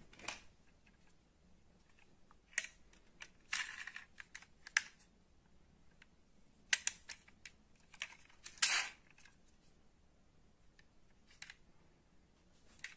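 Light clicks and a few short scrapes from die-cast metal model cars being handled, about ten separate sounds at irregular intervals, with a longer scrape a little past halfway.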